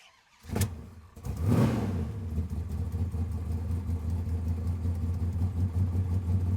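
Straight-piped 2015 Audi R8's 4.2-litre naturally aspirated V8 flaring up about a second in and then settling into a steady, rumbling idle, after a short sharp knock just before it.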